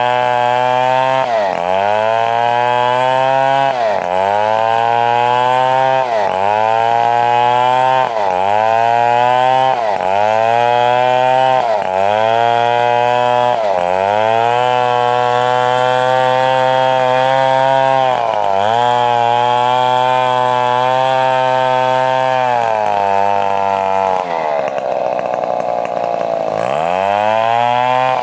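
Stihl 070 two-stroke chainsaw running hard while cutting a coconut trunk lengthwise into rafters. Its pitch sags under load and climbs back about every two seconds. Near the end it bogs down longer and deeper before revving back up.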